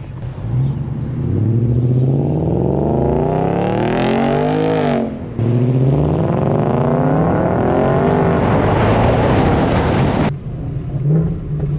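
Mercedes C63 AMG W204's 6.2-litre M156 V8, fitted with long-tube headers and a stainless steel exhaust, accelerating hard. The revs climb, break briefly for an upshift about five seconds in, climb again, then cut off suddenly as the throttle is lifted near the end.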